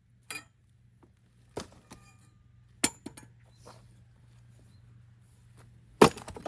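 Axe blows splitting firewood logs: a few sharp, separate knocks at uneven intervals, the loudest about six seconds in.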